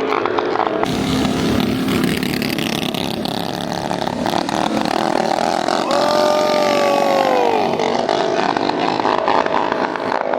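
Mini bike engines running hard at full throttle, several at once. About six seconds in, one engine's pitch falls steadily for about a second and a half.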